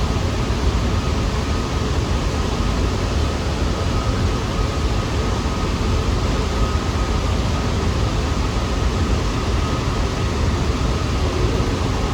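New York City subway train at a station platform giving a steady, loud rumble and hiss, with a faint steady whine above it.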